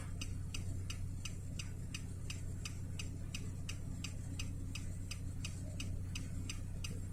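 Car's turn-signal flasher clicking steadily, about four clicks a second, over the low hum of an idling engine.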